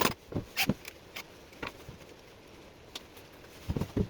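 Hand tools and wood being handled on a workbench: a few light clicks and taps, then two soft low knocks near the end.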